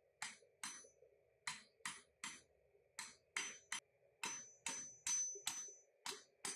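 Hand hammer striking 10 mm rebar tongs over the horn of an anvil to bend their initial curve. It is a steady run of sharp, ringing blows, about two or three a second.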